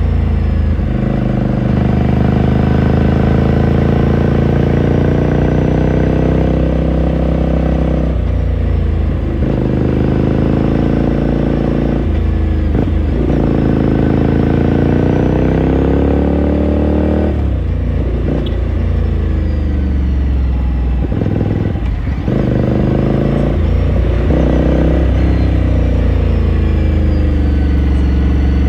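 2018 Ducati Scrambler Sixty2's air-cooled 399 cc L-twin under way, the exhaust note rising and falling as the revs climb and drop several times, with a few short breaks where the throttle comes off.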